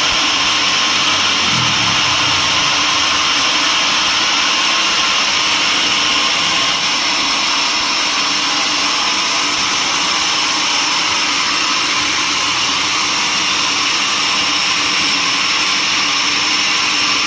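Sawmill saw running steadily, a loud, even machine noise with a high whine.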